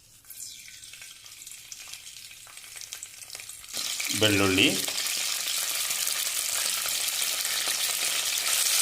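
Hot cooking oil sizzling in a pan: faint at first, then suddenly much louder from about four seconds in as curry leaves are dropped in and stirred.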